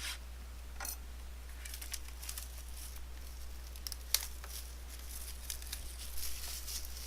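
Plastic wrap and cardboard packaging crinkling and tearing in irregular bursts as a trading-card box is opened, with a few sharp clicks, over a steady low electrical hum.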